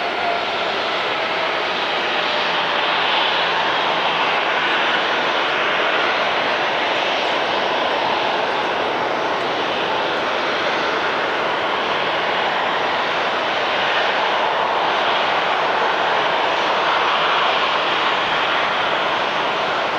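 Widebody jet airliner's engines running loud and steady, a dense rushing roar that swells slightly over the seconds. A faint whine slides down in pitch and fades out about a second in.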